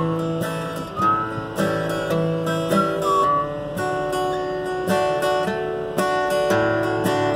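Acoustic guitar strummed and picked, its chords changing about once a second, in an instrumental passage of a song. In the first few seconds a few short sliding high notes sound over the chords.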